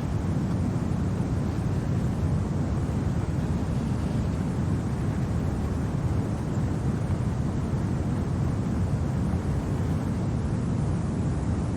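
Steady, low rumbling wind of a winter storm, an even roar with no gusts or breaks.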